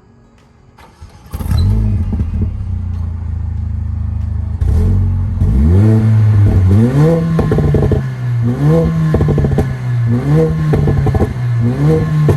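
Mercedes-AMG CLA 45's turbocharged 2.0-litre four-cylinder engine starting about a second in and idling, then revved several times, each rev rising in pitch, holding briefly and falling back.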